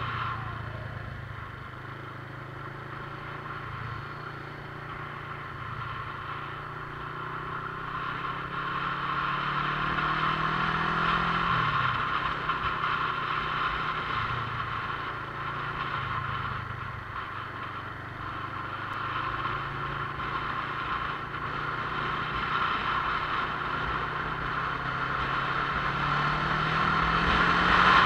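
Motorcycle engine running under way, its pitch climbing as it accelerates and dropping suddenly about twelve seconds in, as at an upshift, then climbing again near the end, over a steady hiss.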